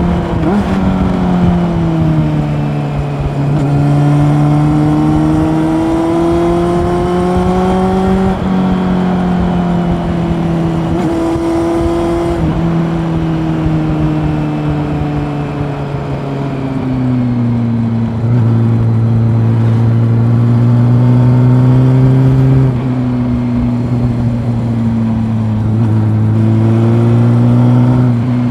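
Honda CB400 Super Four's inline-four engine running under way, heard from on board. Its pitch rises and falls with the throttle, with a few sudden steps in pitch as gears change, and it settles lower near the two-thirds mark.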